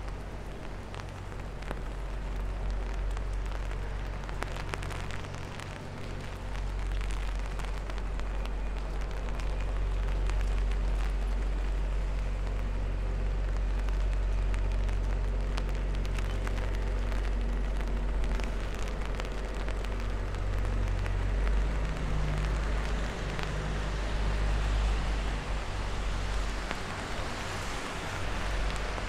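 Steady rain pattering, with many small drop hits close by, over a low, steady rumble.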